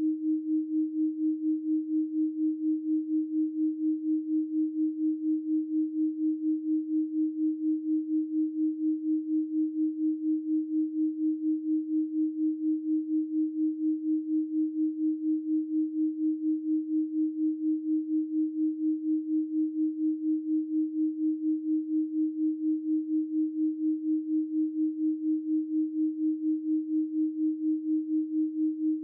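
A 312 Hz pure sine tone held at one steady pitch, its loudness pulsing at a fast, even rate.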